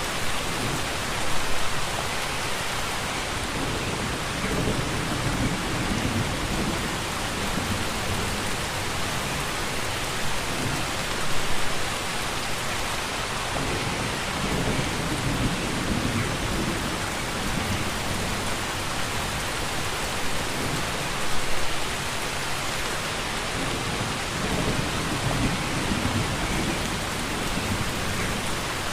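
Steady heavy rainfall as a dense, even hiss. About every ten seconds there is a brief louder spell, then a low rumble that swells and fades.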